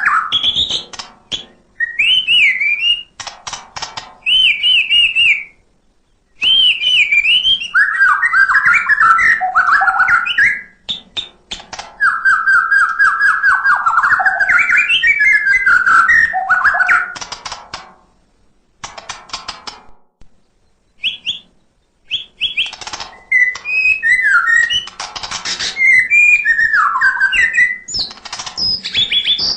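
White-rumped shama (murai batu) in full song: loud, varied phrases of whistles and warbles, broken by short pauses and bursts of fast clicking chatter.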